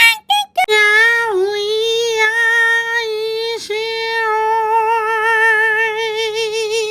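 A high voice singing one long held note with a wavering vibrato, broken off briefly about halfway through and then held again at the same pitch.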